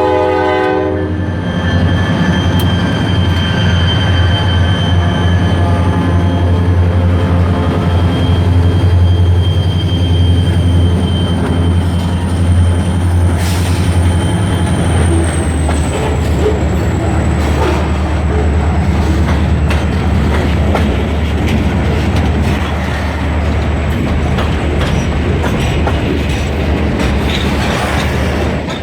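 Freight train with EMD SD40-2 diesel locomotives passing: the horn cuts off about a second in, then a steady heavy diesel rumble with thin, high wheel squeal, one squealing tone sliding down in pitch about halfway through, and the rattle of cars rolling by.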